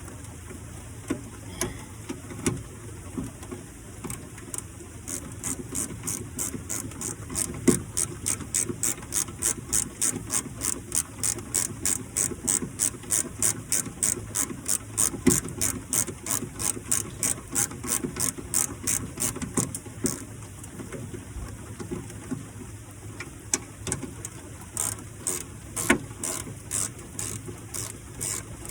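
Hand ratchet wrench clicking in a steady run of about three clicks a second as a bolt is turned. The run stops about twenty seconds in, with a few scattered clicks before and after.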